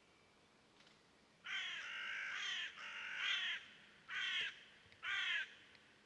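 A bird calling four times: two longer calls about a second and a half in, then two shorter ones, each call coarse and strongest in the upper-middle range.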